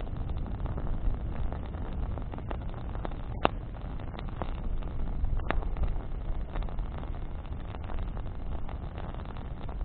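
Campfire of burning branches crackling over a steady low rumble. Scattered pops are heard, the sharpest about three and a half seconds in and another a couple of seconds later.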